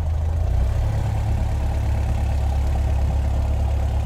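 Piper PA-28 light aircraft's piston engine and propeller running steadily just after start-up, heard from inside the cockpit; the engine note shifts slightly about half a second in.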